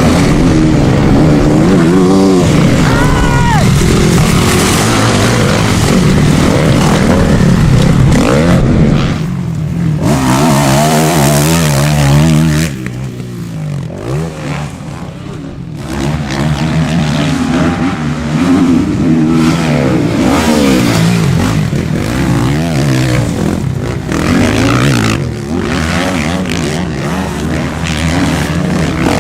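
Motocross bikes racing on a dirt track, their engines revving up and down in pitch through the gears as they pass. About halfway through the engines fall quieter for a few seconds, then come back loud.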